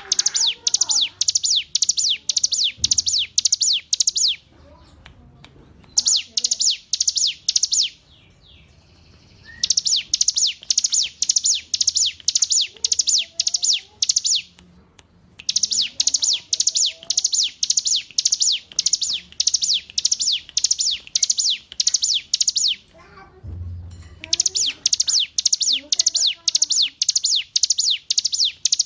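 Ciblek gunung (a mountain prinia) singing: bouts of fast, repeated high notes, each sweeping downward, about three a second, broken by short pauses every few seconds. Fainter, lower chirps of other birds underneath.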